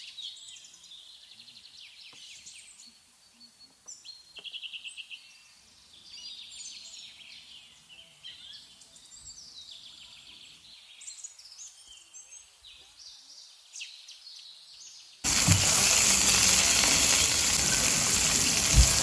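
Small birds singing, with scattered chirps and quick trills. About fifteen seconds in, a loud sizzling of food frying in a pan cuts in abruptly and takes over.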